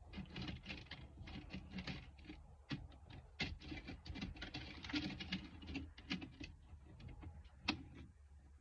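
Handling noise: a dense run of irregular crinkling and clicking.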